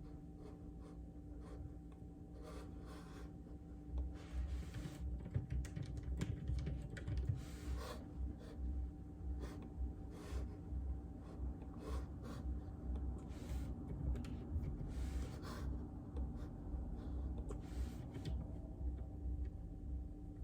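Typing on a JJK84 mechanical keyboard fitted with Outemu Silent Peach linear switches: a quick, uneven run of key presses, sparse at first and picking up to fast continuous typing after about four seconds.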